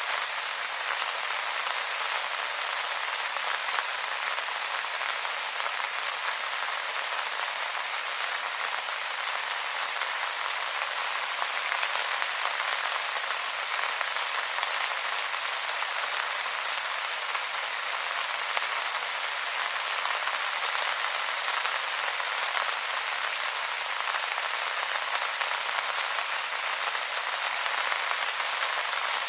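Steady rain falling on wet leaves, an even hiss of many small drop patters.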